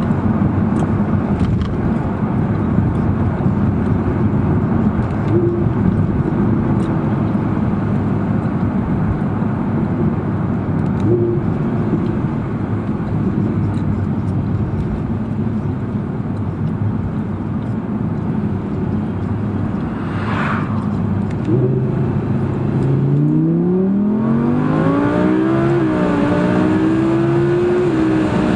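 Audi R8 V10 Plus's 5.2-litre V10 on the move: a steady rumble of engine and road noise, then, about three-quarters of the way in, the engine note climbs hard under acceleration, dipping briefly twice as it shifts up.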